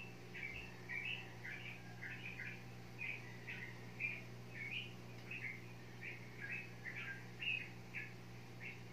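A small bird chirping over and over, short high chirps about two to three a second, some rising and some falling, over a faint steady low hum.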